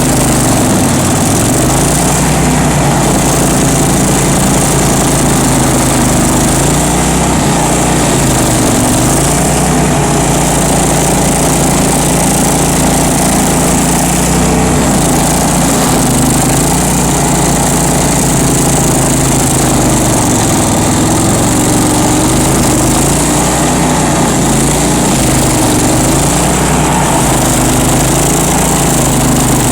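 Bandit ZT1844 stump grinder's engine running hard and steadily, its pitch sagging and recovering several times.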